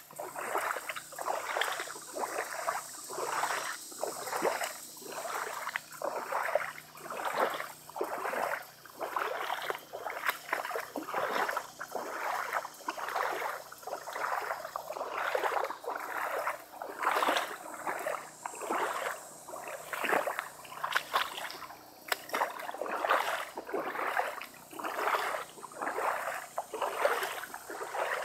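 Footsteps wading through shallow floodwater, a swishing splash with each stride at about one step a second.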